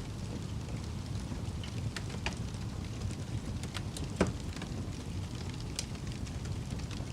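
Wood fire burning in a fireplace: a steady low rumble of flames with scattered crackles, and one sharper pop a little past the middle.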